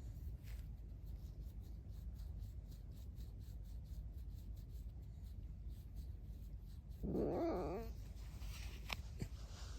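Pet fox giving one creaky, wavering call of about a second, about seven seconds in, followed by a fainter sound and a sharp click.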